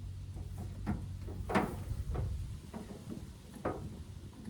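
A few short clicks and clunks, the loudest about one and a half seconds in, from cable clips being fastened to a tractor's starter terminals to power a fuel-tank pump, over a low steady hum.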